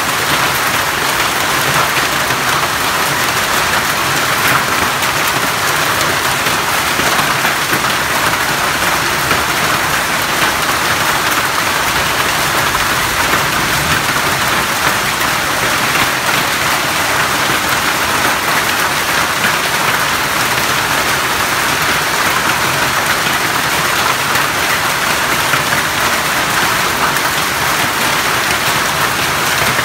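Heavy rain pouring down, a loud, steady, dense hiss of drops splashing on paving and roofs, with water running off the roof edges.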